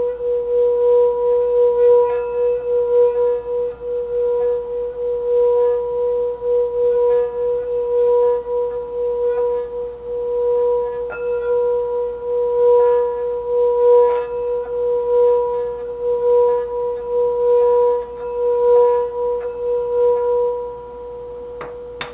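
A steady held "healing" tone with a fainter tone an octave above, pulsing slightly in loudness. A few faint ticks sound over it, and the tone fades away about 21 seconds in.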